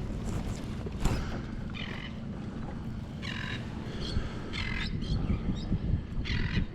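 A bird squawking about four times, short harsh calls over a steady low rumble of wind and water. A single knock sounds about a second in.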